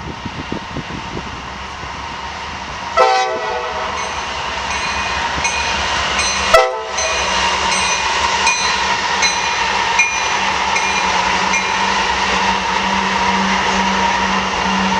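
Norfolk Southern train coming by with two short horn blasts about three and six and a half seconds in. The locomotive's hum and the rail noise build steadily louder, with a regular click about every two-thirds of a second.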